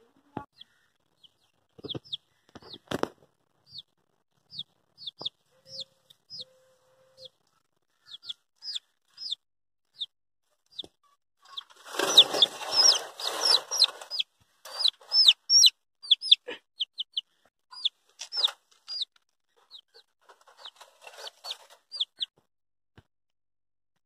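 A small bird chirping: short, high, downward chirps repeated irregularly, coming thicker in the second half. About twelve seconds in, leaves and twigs rustle loudly for about two seconds as they are pushed aside.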